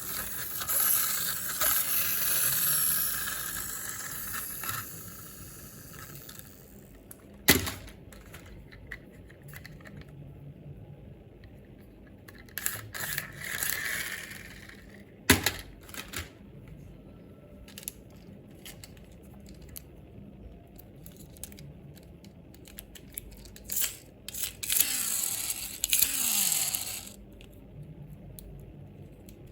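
Handling noises: rustling and crinkling for the first few seconds, then a few sharp clicks and short scrapes.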